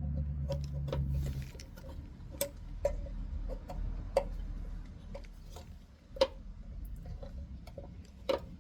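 Irregular clicks and ticks of a flathead screwdriver working plastic retaining tabs loose under a truck's body, with a low hum during the first second or so.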